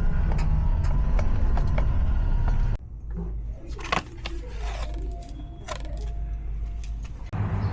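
Work van's engine running with a steady low rumble and a faint steady whine, its power steering fluid leaked out and the reservoir empty. About three seconds in the rumble cuts off abruptly, leaving quieter scattered clicks and knocks, and it returns near the end.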